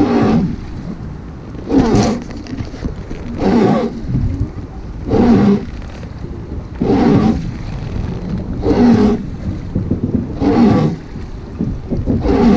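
Wooden river boat's oar worked in steady strokes, each stroke giving a groaning creak, about one every 1.7 seconds.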